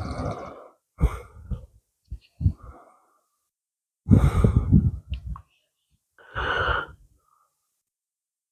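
Puffs of air on the microphone, breath or gusts, in about five short bursts, then a quiet second and a half near the end.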